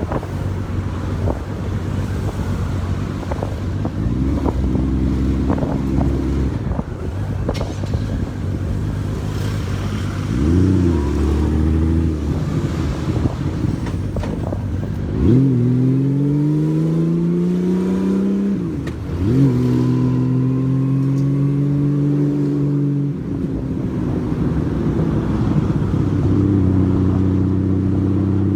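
Honda Valkyrie's flat-six engine pulling away and accelerating through the gears. The revs climb three times, each rise breaking off at a shift, with a steadier cruise near the end.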